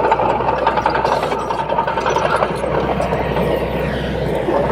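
Heavy diesel engine of earthmoving machinery running steadily, with a steady low hum and a higher whine over it.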